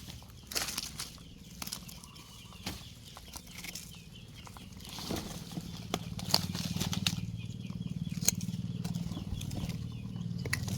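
Rustling and scraping with scattered sharp clicks, as wood and debris are moved by hand. A low steady hum comes in about five seconds in.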